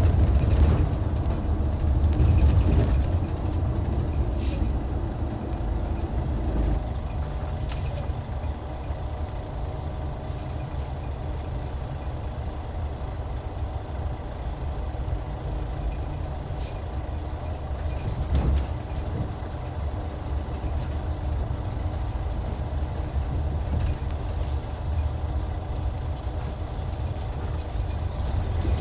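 Hyundai D6CC Powertec 380 inline-six diesel engine of a Hyundai Universe coach running on the road. It is loudest in the first few seconds, drops lower at about seven seconds, and then runs more quietly and steadily. A few brief clicks and knocks sound over it.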